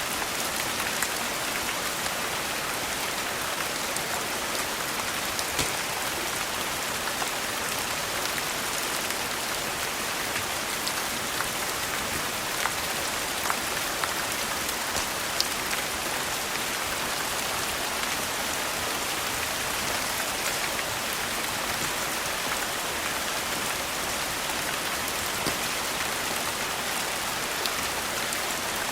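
Steady rain falling on a surface, an even hiss, with scattered sharp ticks and pops like the crackle of a wood fire.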